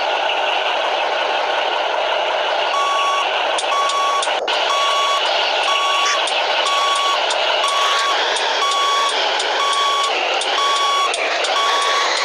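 Truck reversing alarm beeping about once a second, starting about three seconds in, over the steady running of a heavy truck's diesel engine.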